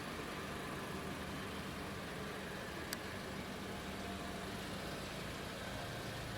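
An engine running steadily at idle, with a single sharp click about three seconds in.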